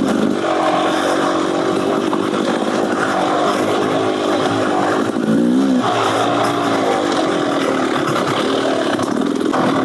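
Beta Xtrainer 300 two-stroke single-cylinder engine, fitted with an FMF Gnarly exhaust, revving up and down as the bike is ridden on trail. Its pitch dips and climbs back a little past halfway.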